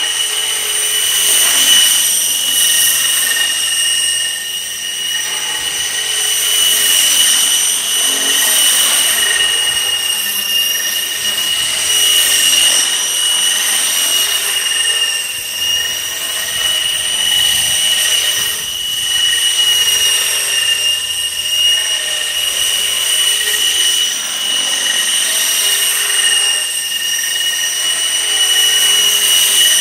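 Outrage Fusion 50 RC helicopter in flight: a steady high-pitched mechanical whine from its rotor drive, rising and falling a little in loudness as it moves around.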